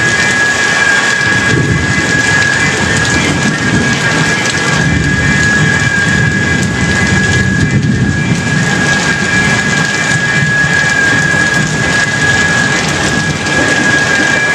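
Heavy tropical rain pouring down, with a low thunder rumble swelling through the middle. A thin steady high tone sits under the rain throughout.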